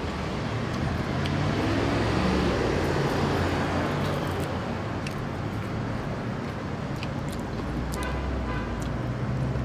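Road traffic: a steady low engine hum, with a vehicle passing that swells and fades over the first few seconds. A few faint clicks near the end.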